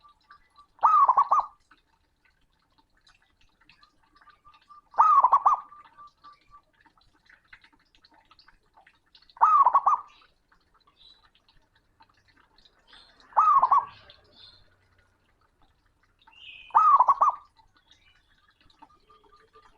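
Male zebra dove (perkutut) singing its loud, rolling coo five times, about every four seconds, each phrase about half a second long. Faint quick notes at a similar pitch come before some of the phrases.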